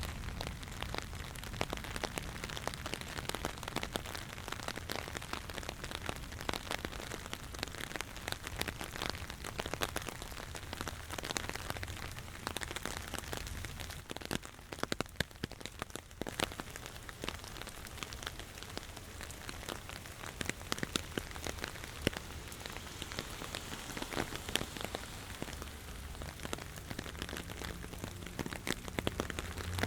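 Steady rain falling, a dense patter of drops hitting surfaces close by, with a low rumble rising near the end.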